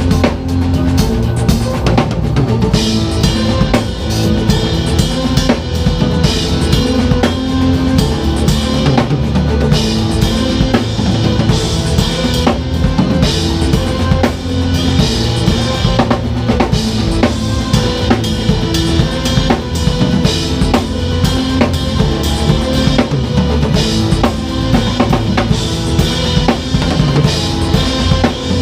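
Drum kit played at a busy groove: rapid kick-drum, snare and rimshot strokes with cymbals, over a pitched backing track of sustained notes.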